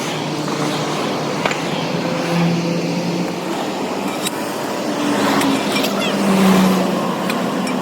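A motor vehicle engine running amid steady street noise, with a few sharp clicks.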